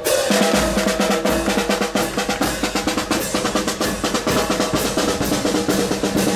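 Marching band playing in a parade: rapid snare drumming with bass drum beats under held notes from wind instruments.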